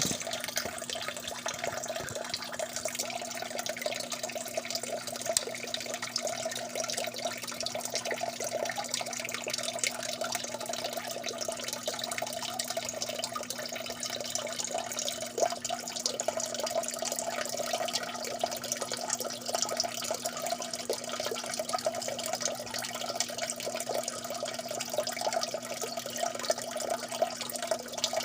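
Water dripping and trickling steadily, a dense, even patter of small drops and splashes that runs on without a break.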